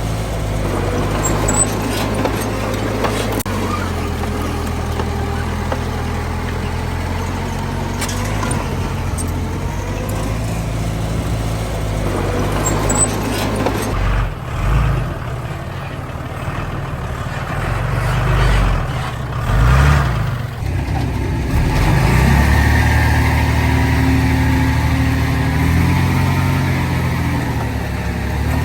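Heavy diesel earthmoving machinery, dump truck and bulldozer, running steadily with a few sharp knocks. About halfway through the sound turns uneven for several seconds, then an engine note rises and holds louder.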